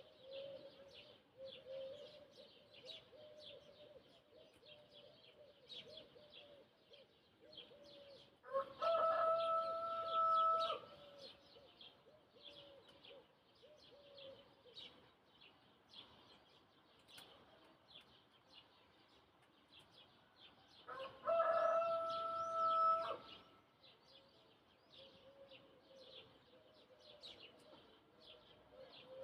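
A rooster crowing twice, each crow about two seconds long, about eight seconds in and again about twenty-one seconds in. Small birds chirp continuously throughout.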